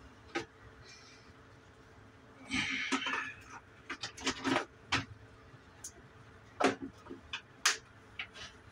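Scattered clicks and knocks of tools and parts being handled, with a short scraping rustle about two and a half seconds in.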